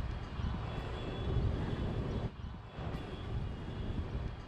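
Motorcycle under way on the road: steady engine and road noise with rumbling wind on the microphone, easing off briefly about halfway through.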